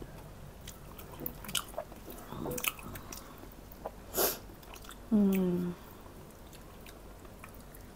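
Quiet mouth sounds of someone eating: chewing and small lip smacks. About four seconds in there is a short breathy sound, and about five seconds in a brief hummed "mmm" that dips slightly in pitch.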